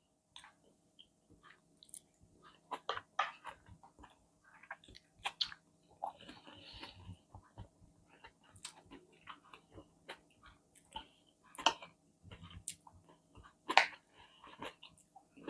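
Close-miked chewing of a person eating: irregular small crunches, clicks and wet mouth sounds, with a couple of louder bites near the end.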